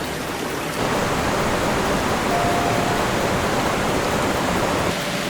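Rushing floodwater: a steady noise without rhythm that gets louder about a second in.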